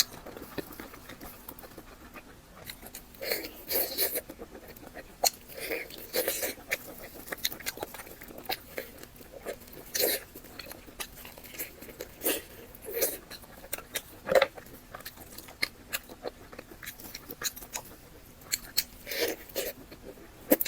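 A person biting and chewing food close to the microphone, with irregular crunches and smacking mouth clicks.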